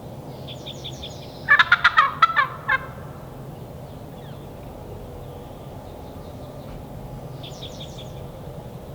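Wild turkey gobbling once, a loud rapid rattling call lasting a little over a second. A small songbird trills faintly before and after it.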